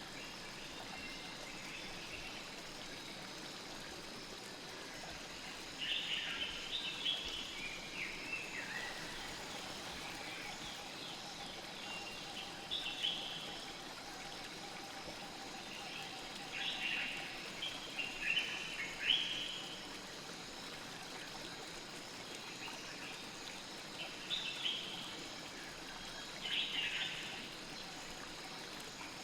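Steady flow of a river, with birds calling over it in short clusters of quick chirps every several seconds.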